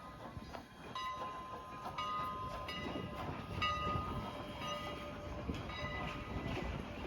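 A train rolling along the track: steady rumbling of wheels on rails, with faint, short, high-pitched tones coming and going.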